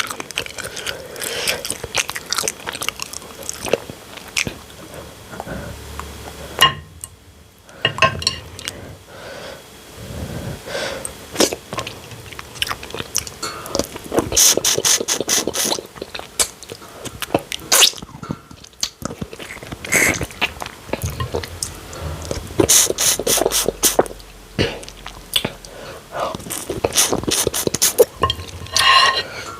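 Close-miked eating sounds of banku and palmnut soup being chewed: wet chewing and clicky mouth noises, with several quick runs of clicks.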